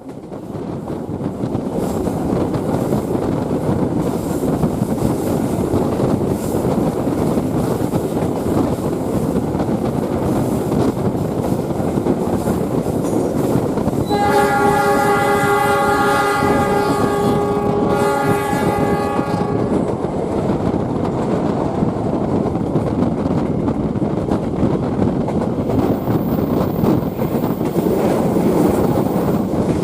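Passenger train running on the rails, heard from on board: a steady rumble with wheel clatter. Near the middle, the locomotive horn sounds a chord of several tones for about five seconds.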